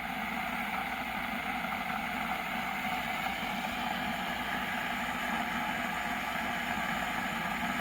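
Electric kettle heating water: a steady rushing hiss that slowly swells, as the water starts to bubble toward the boil. The noise is fairly quiet.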